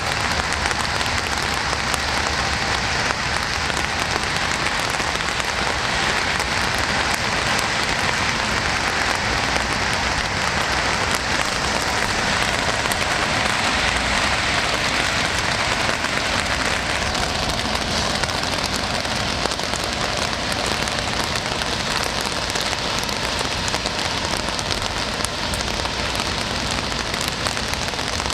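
Steady rain falling and pattering on surfaces, a dense even hiss of drops.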